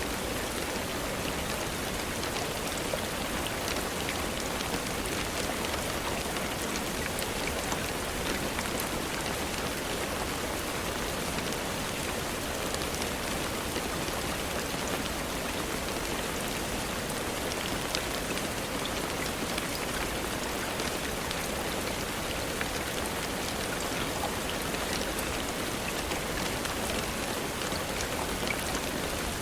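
Steady rainfall, an even hiss of rain with many small drop clicks scattered through it.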